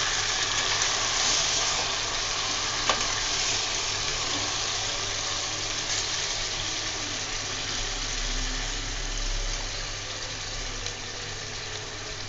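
Marinated chicken pieces sizzling in hot oil with browned onions in an aluminium pot, just added and frying over medium heat; the sizzle slowly quietens. A couple of sharp clicks sound in the first half.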